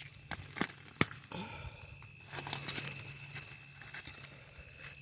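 A few sharp snaps and some rustling from vines being cleared, over insects chirping in an even pulse about four times a second.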